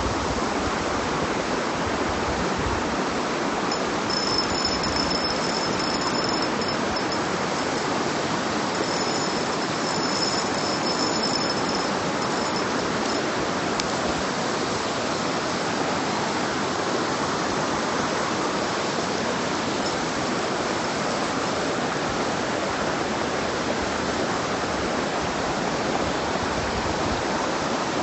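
Mountain stream rushing steadily. A faint, thin high-pitched call comes and goes over it from about four seconds in until about thirteen.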